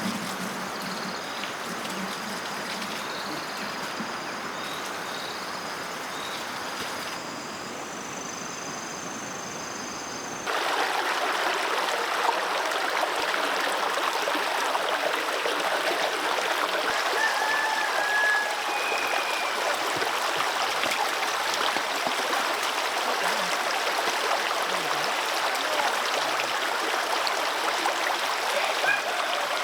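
Steady rush of running water, stepping suddenly louder about ten seconds in, with faint high chirps over it before the change.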